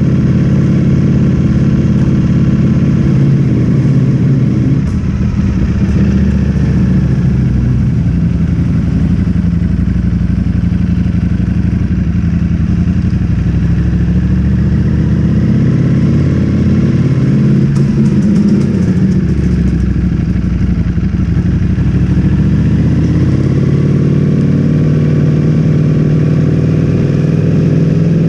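Ducati Streetfighter V4S's 1103 cc V4 engine through an Akrapovic full-system exhaust, running under way, its note rising and falling with throttle and gear changes.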